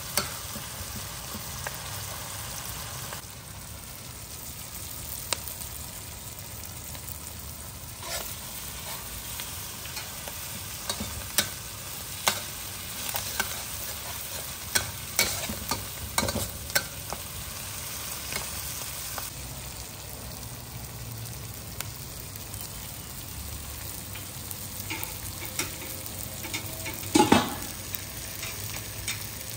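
Curry paste of curry powder, oil and curry leaves sizzling in a wok while a metal spatula stirs and scrapes it, with scattered sharp clinks of the spatula against the pan, the loudest a cluster near the end.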